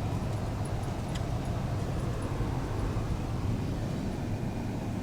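Steady low rumble of a vehicle's engine and tyres heard from inside the cabin while driving on a snow-covered road.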